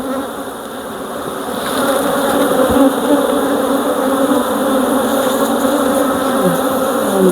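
Honeybees buzzing in a steady hum around an opened hive. Near the end, single bees fly close past the microphone, their pitch dropping as they pass.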